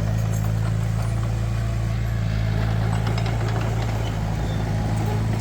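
Cat 336 excavator's diesel engine running at a steady, even drone, with a few faint clanks on top.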